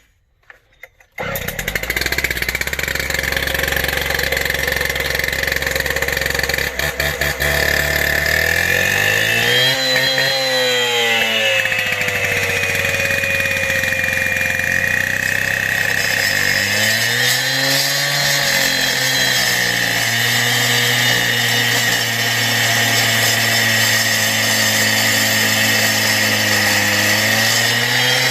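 Husqvarna gas-powered demo saw (power cutter) with a two-stroke engine running just after being started, brand new. It idles, is revved up and back down twice, then holds a steady higher speed.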